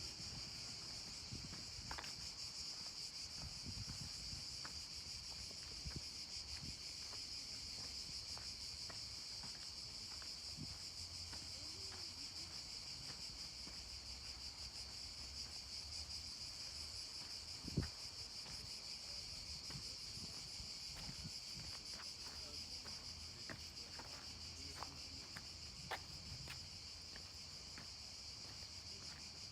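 Steady high-pitched chorus of insects, with soft scuffing footsteps and scattered small clicks. A single sharp knock sounds about two-thirds of the way through.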